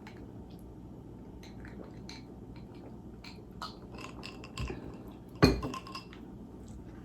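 Tableware at a meal: small clicks and clinks of cutlery against dishes and glass, with a louder knock about five and a half seconds in, like something set down hard on the table.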